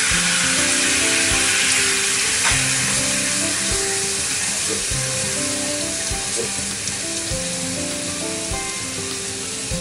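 Canned mackerel in miso sauce sizzling as it hits a hot frying pan. The sizzle is loudest at first and slowly dies down, with a few light knocks along the way.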